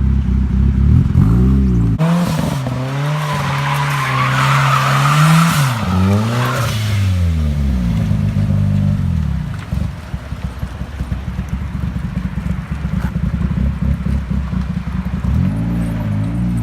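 A car engine revs hard while the tyres squeal in a skid for about five seconds. The revs then fall away and the engine settles to an uneven, crackling idle, revving up again near the end.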